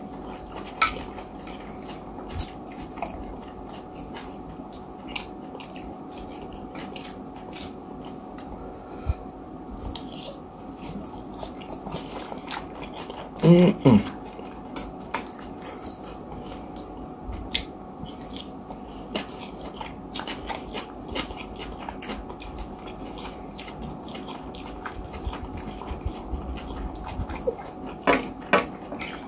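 Close-up eating sounds: a man chewing mouthfuls of oil rice and chicken, with scattered small clicks and scrapes of a fork on the plate. A short hum-like vocal sound from the eater comes about halfway through.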